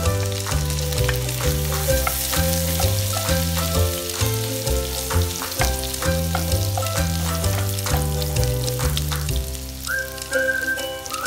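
Garlic and sliced ginger sizzling in a frying pan, stirred with a wooden spatula. Background music with a bouncing bass line plays over it, and a melody line comes in near the end.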